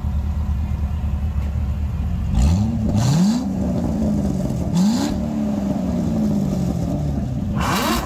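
A sports car's engine idling, then revved in about four short blips starting a couple of seconds in, each a quick rise and fall in pitch.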